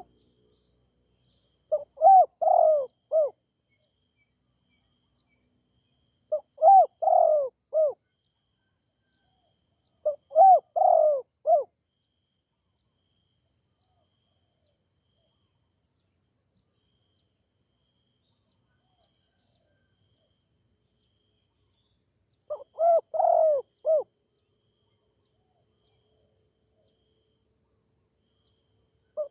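Spotted dove cooing: four phrases of several rising-and-falling notes, each lasting about a second and a half, with a long pause of about ten seconds after the third phrase.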